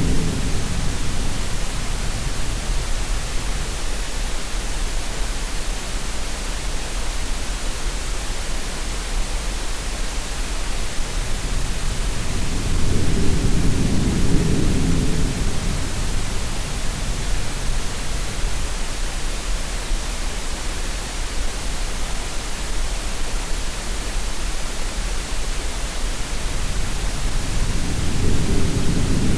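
Steady green-noise hiss mixed with low sea sounds: a deep swell that rises and fades roughly every fifteen seconds, once near the middle and again at the end.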